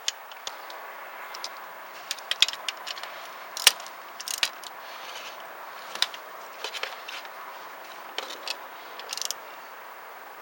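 Irregular sharp clicks and metallic clinks of hand tools and parts being handled, over a steady background hiss.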